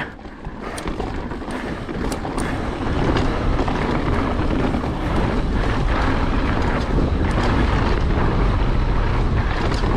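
Wind rushing over the microphone as a mountain bike descends a dirt trail, with rumble and rattle from the tyres and bike. A few sharp clicks in the first couple of seconds, then the rush grows louder about three seconds in and holds steady.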